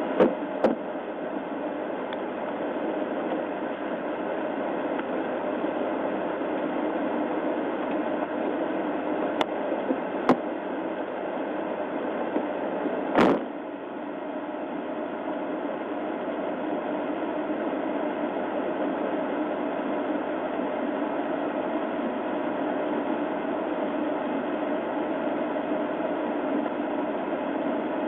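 Steady hum and hiss of a parked, idling police patrol car as heard by its dashcam microphone, broken by a few short sharp clicks: one near the start, two around ten seconds in, and a louder one a little after thirteen seconds.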